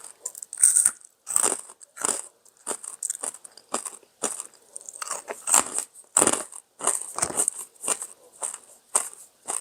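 Close-up crunching of crispy fried pork rinds (fat back skins) being chewed, a quick run of irregular crackling crunches, about two to three a second.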